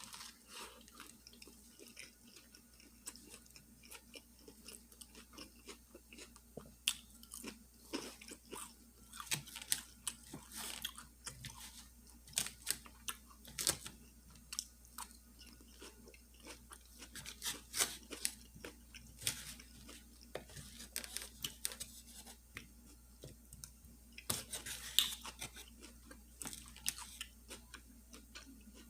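Close-up chewing of a fish sandwich and salad, with crisp crunches and wet mouth sounds: many short crackles and clicks coming in clusters, loudest a little after the middle and near the end.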